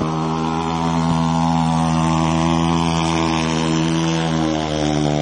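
Thumpstar 110cc pit bike's single-cylinder four-stroke engine held at steady high revs, its pitch wavering slightly, with a brief dip and pick-up near the end.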